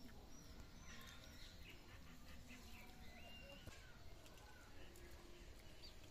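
Near silence outdoors with faint, scattered bird chirps and short whistled calls.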